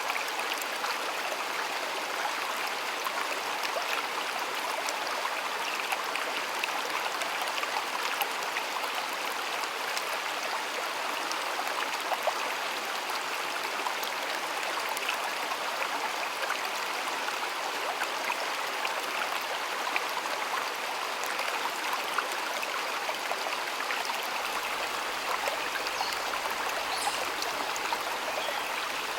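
Flowing stream water running steadily, a continuous rushing and babbling with small splashes and drips throughout.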